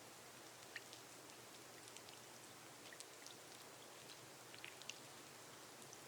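Faint steady rain on a glass roof, an even hiss with scattered individual drops ticking on the glass.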